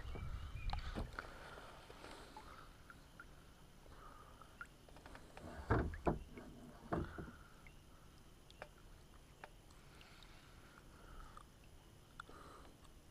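Quiet kayak sounds on calm water, with a few sharp knocks on the kayak about six to seven seconds in.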